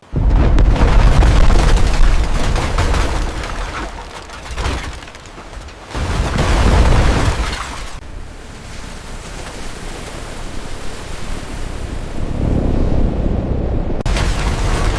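Deep booms and rumbling, like explosions: a sudden hit at the start that rumbles on for a few seconds, a second hit about six seconds in, and a lower rumble that swells again near the end.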